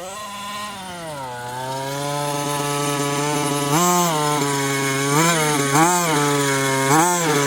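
Small two-stroke petrol engine of a 1/5-scale RC truck running and growing louder, with repeated short throttle blips from about four seconds in.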